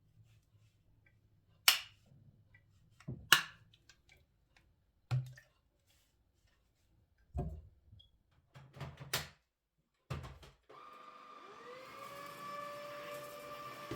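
A few separate knocks and clicks as things are handled, then a vacuum cleaner switching on near the end, its motor whine rising in pitch and settling into a steady run.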